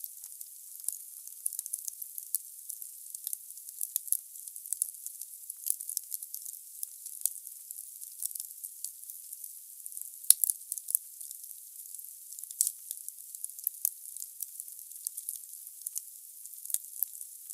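Firewood burning in a fireplace, crackling and hissing: frequent small sharp pops over a soft hiss, with one louder crack about ten seconds in.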